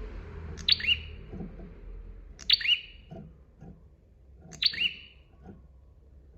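A prenjak (prinia) singing: three loud, sharp chirping calls about two seconds apart. Fainter short knocks sound underneath.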